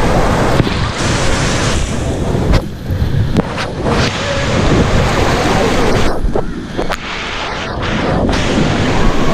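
Loud rushing water and splashing on a water slide, with air buffeting the microphone. The sound goes muffled twice, about three seconds in and again around six seconds.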